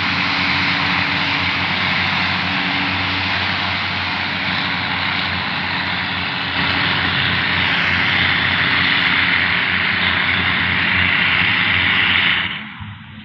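Diesel railcar train running as it pulls away from the station: a loud, steady engine drone with wheel and rail noise that cuts off suddenly near the end.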